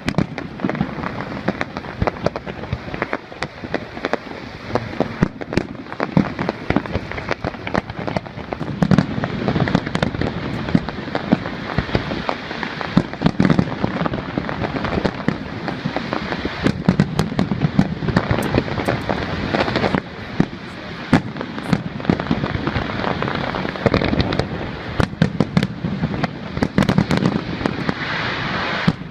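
Fireworks display: a dense, continuous run of sharp cracks and crackles, with heavier low booms every few seconds.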